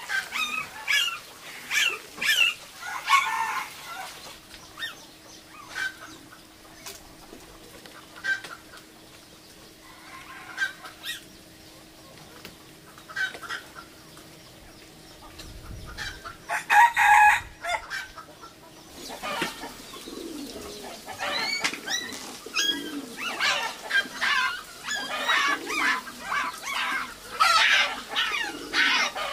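Chickens clucking in many short, repeated calls, with one louder burst of calling about two-thirds of the way through.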